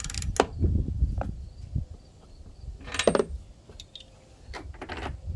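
Scattered metallic clinks and clicks of hand tools and parts being handled while a lawnmower's spark plug is fitted back in, with a louder cluster about three seconds in.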